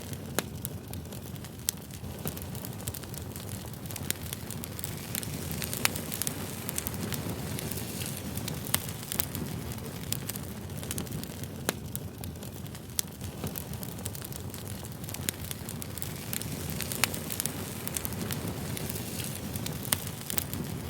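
Campfire burning: a steady low rush of flames with frequent sharp crackles and pops of burning wood at irregular intervals.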